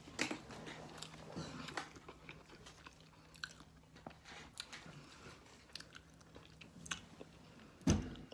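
A person chewing a mouthful of thick steak sandwich with the mouth close to the microphone: soft, wet clicks and small crunches scattered through. A louder thump comes near the end.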